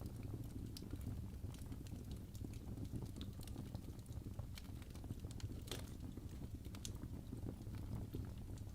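Wood fire burning in a fireplace: a steady low rumble of the flames with irregular crackles and pops from the burning logs, one sharper pop about six seconds in.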